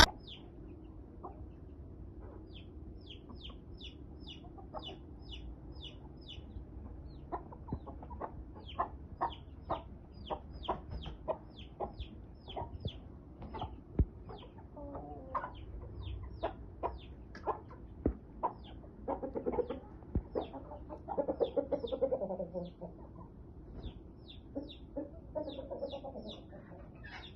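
Aseel chickens calling: a long run of short, high-pitched calls, each falling in pitch, about two a second, with lower clucking mixed in about two-thirds of the way through.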